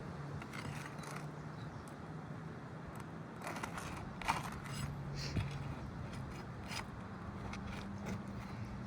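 Short scrapes and clicks of a tool working under brittle roof shingles while hunting for a hidden nail, busiest in the middle, with one sharper click.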